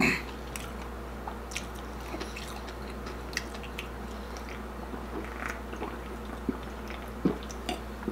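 Faint, scattered mouth sounds of chewing and swallowing while drinking from a drink can, over a steady low hum, with one brief louder noise right at the start.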